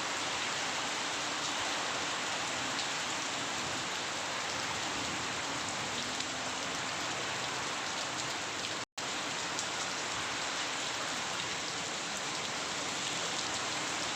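Steady rain falling, an even hiss with faint scattered drop ticks. It cuts out for an instant about nine seconds in.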